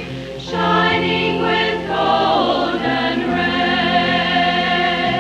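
Church choir singing a slow Christmas anthem in sustained chords that change every couple of seconds, the voices wavering with vibrato over steady low notes.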